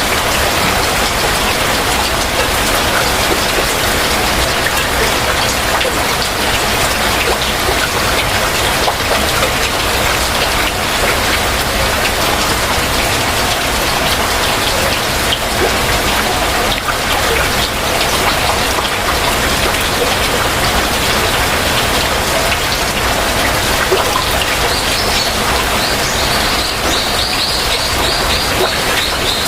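Heavy rain falling steadily. Near the end, a bird sings a quick trill of rapidly repeated high notes over the rain.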